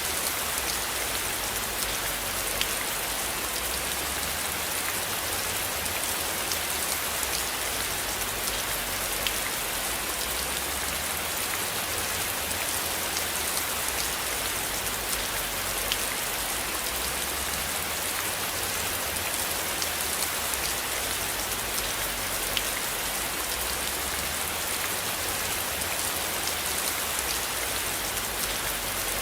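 Steady rain: an even hiss with scattered single drops ticking through it.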